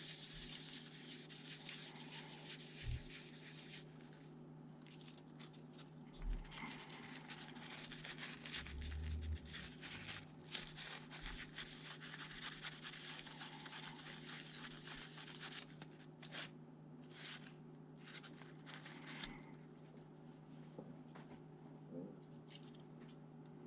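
Faint rubbing and scraping from hands working on laptop parts, with a few soft knocks, over a steady low hum.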